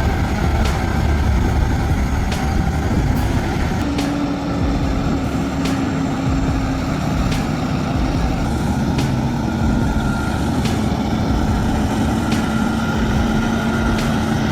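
Heavy truck engine running steadily under load, its pitch shifting slightly about four seconds in, with light ticks about every second and a half.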